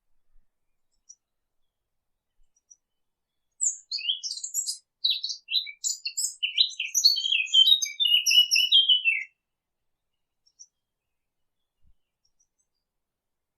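A Sylvia warbler, the 'fig bird', sings one song phrase of rapid, varied warbling notes. It begins about three and a half seconds in and lasts about five and a half seconds.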